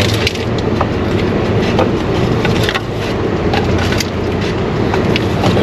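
Automatic car wash machinery running: a steady low rumble with scattered clicks and knocks.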